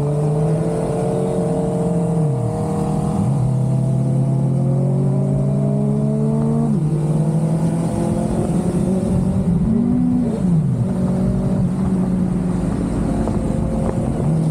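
Suzuki GSX-R600 sport bike's inline-four engine running under way, its pitch dropping sharply several times as gears change, with a brief rise and fall in pitch about two-thirds of the way through. A steady rush of wind and road noise runs underneath.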